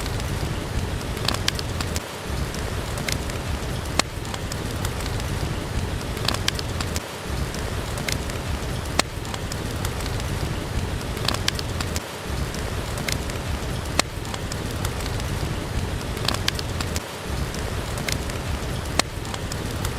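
Steady rain with scattered sharp crackles and pops from a wood fire. The low rumble under the rain briefly drops out about every five seconds.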